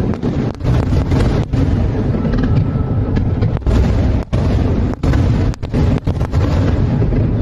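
Fireworks display: aerial shells bursting one after another in a dense, continuous rumble of booms.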